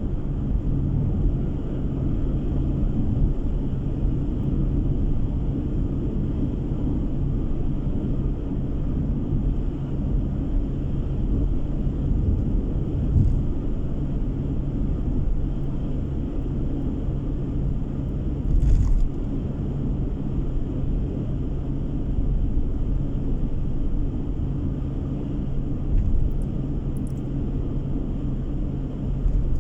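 Car driving at a steady speed, heard from inside the cabin: a continuous low rumble of engine and tyre road noise with a steady hum. A few brief thumps stand out, the loudest about 19 seconds in.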